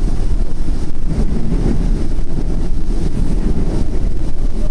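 Steady low rumble of a Northstar commuter train running along the track, heard from inside the passenger coach.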